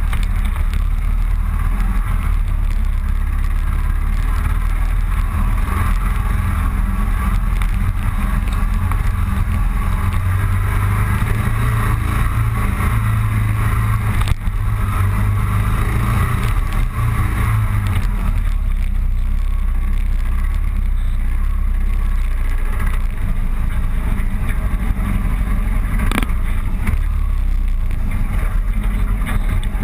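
Motorcycle engine running steadily while riding along a road. Its low drone strengthens for several seconds in the middle.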